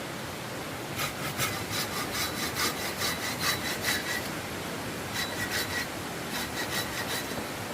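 Saw cutting wood by hand in quick back-and-forth strokes, in three runs broken by short pauses.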